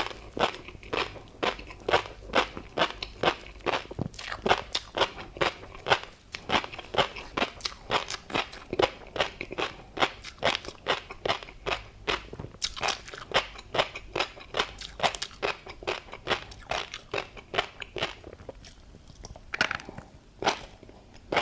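Close-up chewing of tobiko (flying fish roe) with a crunchy seafood topping: rapid crunching and crackling pops, about three to four a second, without a break.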